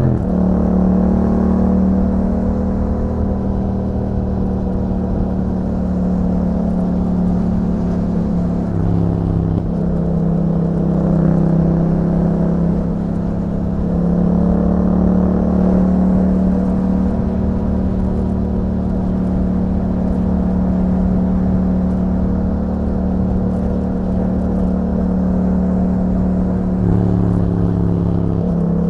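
2021 Yamaha MT-07's 689 cc parallel-twin running through an Akrapovic exhaust fitted with a YAHOM dB killer, under steady throttle while riding. Its note steps in pitch a few times, around a third of the way in and again near the end.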